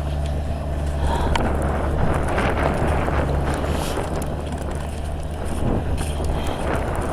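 Skid steer engine running steadily, with wind blowing across the microphone.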